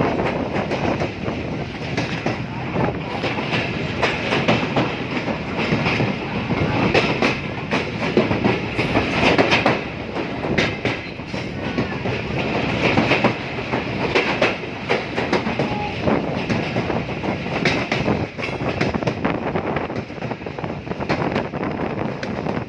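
Train running along the track, with a steady rumble and frequent clicks and clacks from the wheels over the rails.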